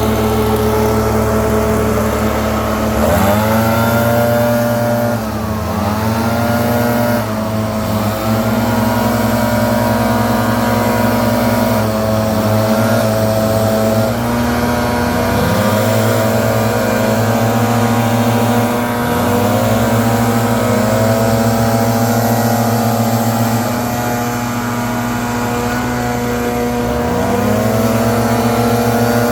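Gas leaf blower's engine running at high throttle, its pitch dipping and swooping back up several times as the throttle is eased and opened again.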